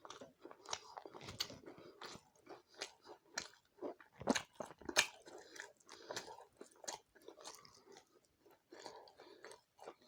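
Close-miked chewing and biting of dry chicken curry with rice and roti: irregular mouth noises with sharp clicks, the loudest two about four and five seconds in.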